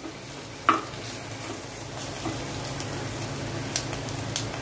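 Sliced bitter gourd shallow-frying in a little oil in a pot, a steady soft sizzle, with one sharp knock about a second in.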